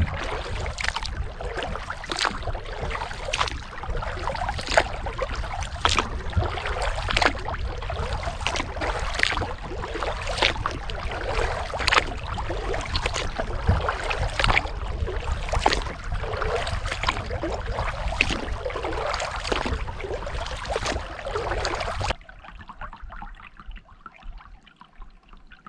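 Kayak paddle strokes in lake water: a splash about every second and a quarter, with water trickling off the blades between strokes and a steady low rumble beneath. It stops abruptly near the end.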